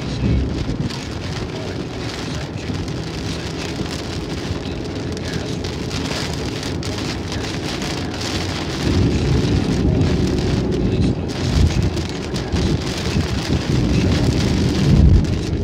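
Rain on a car's windshield, heard from inside the moving car, with a steady low road and engine rumble underneath. The low rumble swells louder about nine seconds in.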